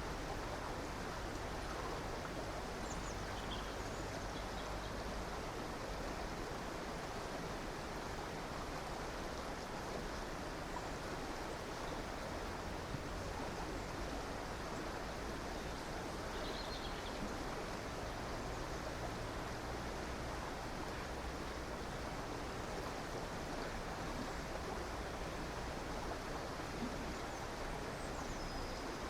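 A river or stream flowing with a steady rushing of water, and a few faint, brief bird chirps, about three seconds in, around seventeen seconds and near the end.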